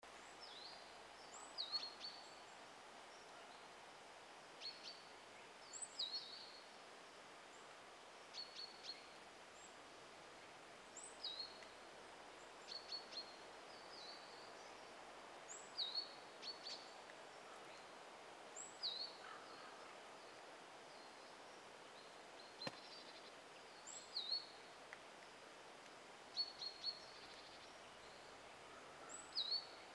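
Quiet woodland ambience with short, high chirps from a small bird, singly or in quick clusters of two or three every second or two. One sharp click comes about three quarters of the way through.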